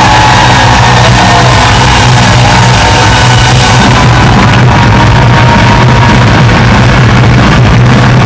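Live reggae-rock band playing with a symphony orchestra, loud and continuous.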